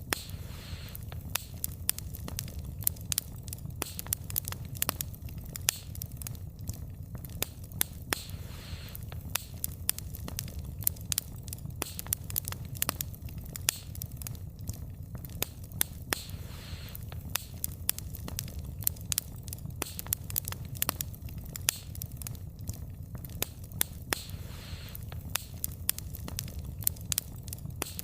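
Wood fire burning, the firewood crackling and popping in sharp irregular snaps over a low steady rumble of flames.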